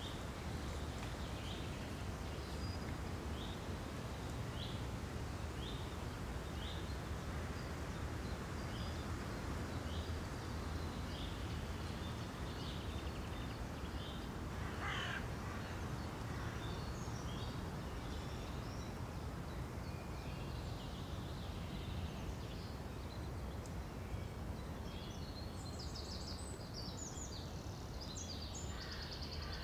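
Woodland ambience: a bird repeats a short high call roughly once a second, over a steady low background hum. Near the end, faster high twittering from other birds joins in.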